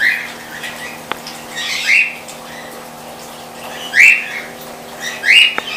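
A bird calling loudly four times, each call short and rising then falling in pitch, over the steady hum of water pumps.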